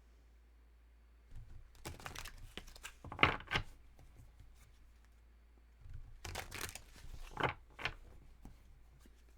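Tarot cards being shuffled and handled by hand in two short bouts of papery flicking and riffling, the first starting about a second and a half in and the second about six seconds in.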